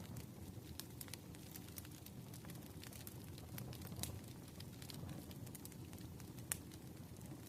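Wood fire crackling, with frequent small sharp pops and a louder pop about four seconds in and another near six and a half seconds, over a soft steady wash of rain.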